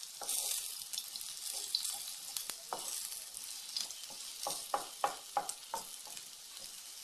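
Cabbage-and-egg mixture frying in hot oil in a pan, a steady sizzle, with a quick run of light taps against the pan about two-thirds of the way through as a utensil works the mixture.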